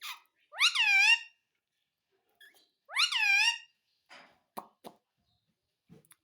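Indian ringneck parakeet calling twice, two matching calls about two seconds apart, each a short shrill note that rises and then falls, followed by a few faint clicks near the end.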